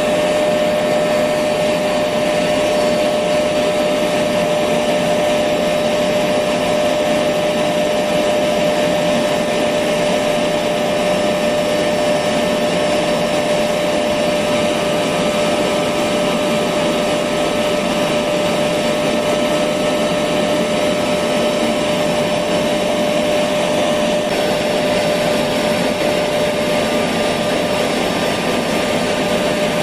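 Electric vacuum cleaner running steadily, an unbroken rushing noise with a constant whine.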